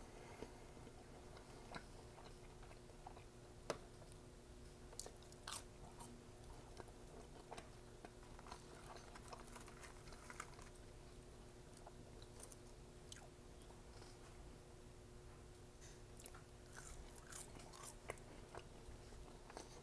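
Faint close-up chewing of McDonald's food: scattered wet mouth clicks and soft crunches, with a louder bite about two seconds before the end, over a faint steady hum.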